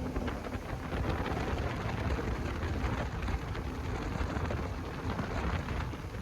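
Boat running under power: a low engine rumble under a rushing hiss of wind buffeting the microphone and water splashing.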